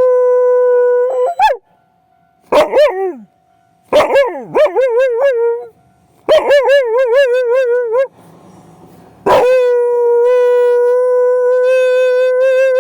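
Akita dog howling at a railroad crossing signal: a run of loud howls, some held steady and some wavering, with a short falling yelp about three seconds in and one long steady howl in the last few seconds. A faint steady tone is heard in the pauses between howls.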